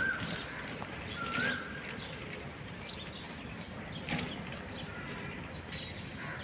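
Birds chirping over steady outdoor background noise, with a short rising-and-falling whistled call at the start and again about a second and a half in.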